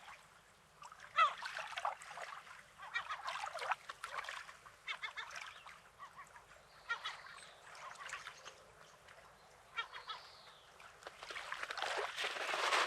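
Birds giving a series of short, irregular calls over the soft wash of the sea. Near the end the sea noise swells as a wave comes in.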